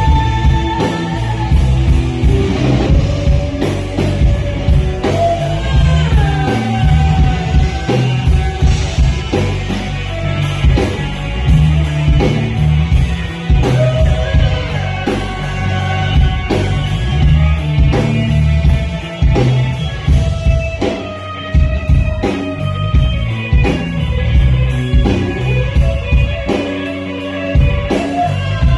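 Rock band playing live: electric guitars, bass and drum kit at a steady beat, with a gliding melodic line over the top.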